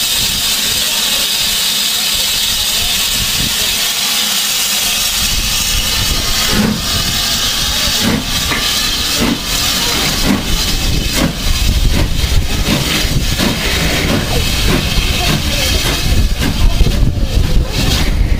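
BR Standard Class 5 steam locomotive giving off a steady hiss of steam. From about five seconds in, a heavy low rumble joins the hiss, with irregular beats and puffs.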